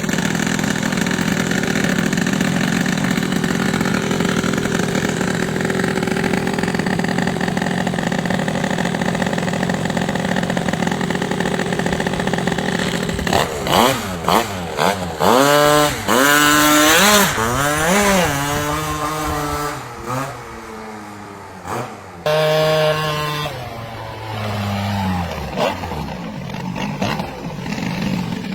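Automatic scooter engine running steadily, then revved up and down several times from about halfway through, each rev rising and falling in pitch. Near the end it revs down.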